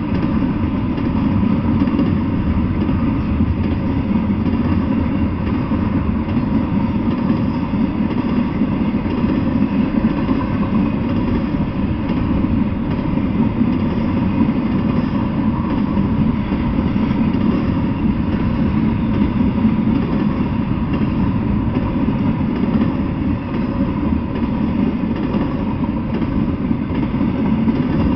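Double-stack intermodal freight train rolling past: steady, loud noise of steel wheels running on the rails as the well cars go by.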